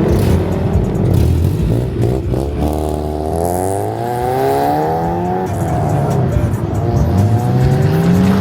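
Car engine revving over a steady low rumble: its pitch climbs and falls between about three and five seconds in, then climbs again near the end.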